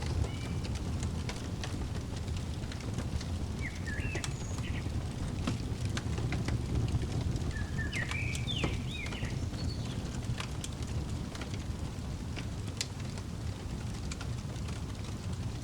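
Fireplace crackling: a steady low rush of burning wood with scattered sharp pops and snaps. Short bird chirps come in a few brief phrases, the busiest about a third of the way through.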